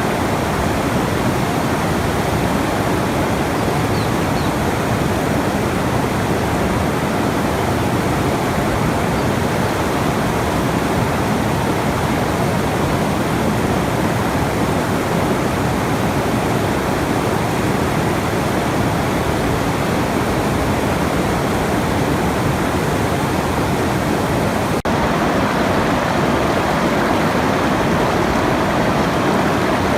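Steady rushing water, even and unbroken, as in a relaxation track of a waterfall or stream, with a momentary dip about 25 seconds in.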